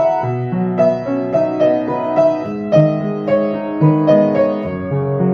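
Background piano music: a gentle melody of single notes over held chords, about two notes a second.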